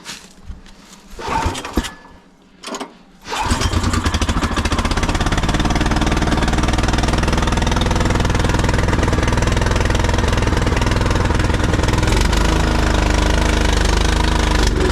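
Gas snowblower engine, primed and on full choke, starting from cold about three seconds in and running steadily and loudly; its note wavers near the end.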